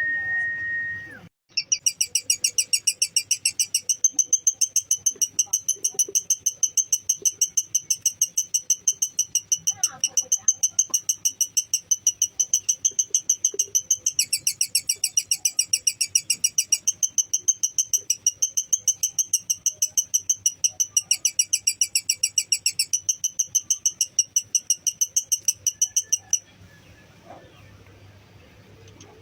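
Lovebird's long 'ngekek' chatter: a fast, even run of shrill, high notes, about five a second, that shifts pitch a few times and stops abruptly near the end. A steady, high single tone sounds briefly at the very start.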